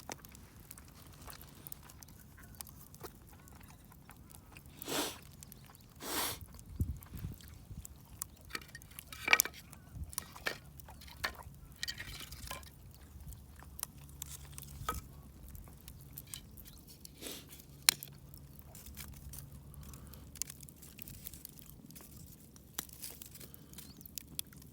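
A person eating: chewing with scattered sharp clicks and taps, and two short louder rushes of noise about five and six seconds in.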